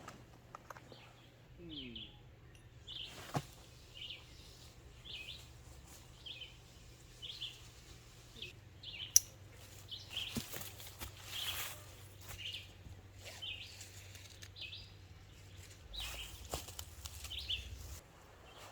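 A bird repeating a short, high call about once a second, over a faint low hum, with a few sharp clicks.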